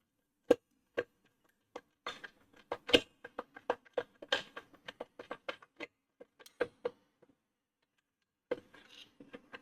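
Irregular sharp clicks and taps of a screwdriver and small parts against the stand mixer's casing while screws are worked loose, up to several a second, stopping briefly about seven seconds in before a few faint rustles near the end.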